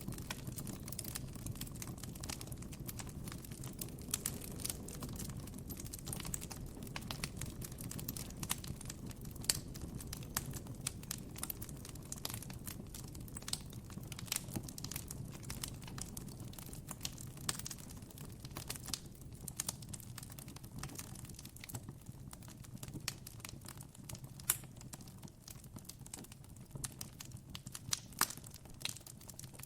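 Campfire burning with a steady low rumble and frequent irregular sharp pops and crackles.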